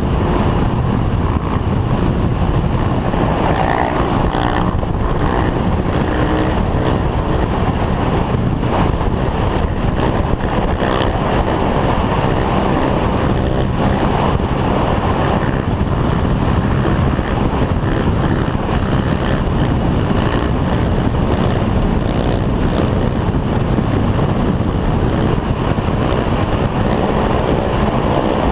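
Steady wind rush on the microphone with a vehicle engine running underneath, as recorded from a moving vehicle.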